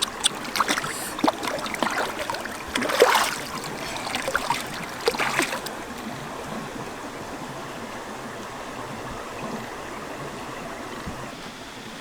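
Water splashing and sloshing in irregular bursts for about six seconds, then a steady wash of running stream water.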